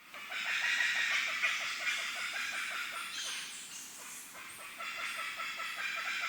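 Birds calling together in a dense, steady chatter, with rapid repeated clucking notes at about five a second.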